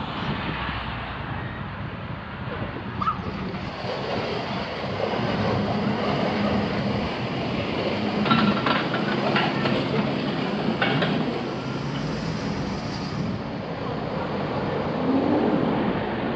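Steady road and running noise of a car being driven, with a few short clicks or knocks about halfway through.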